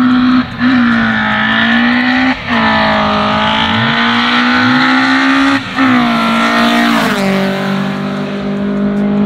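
Naturally aspirated Volkswagen drag car's engine revving hard and held at high revs, broken by short gaps three times. About seven seconds in it drops to a steadier, lower note.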